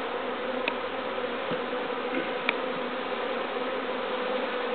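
A colony of honeybees buzzing around an open hive during an inspection: a steady, dense hum of many bees, with two faint clicks about a second and two and a half seconds in.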